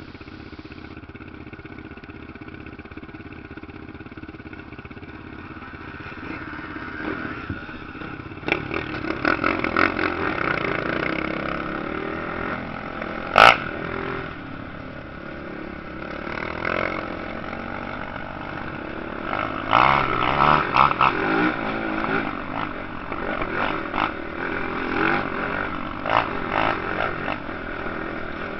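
Motocross motorcycles racing, their engines revving and surging, louder and busier from about eight seconds in. A single sharp, loud crack stands out about halfway through.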